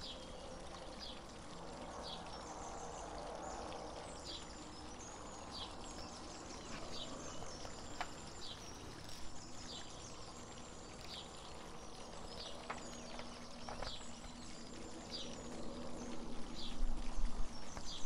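Backyard ambience: a bird giving short, high, falling chirps every second or so over the steady trickle of a garden water fountain, with a rustle of magazine pages being handled near the end.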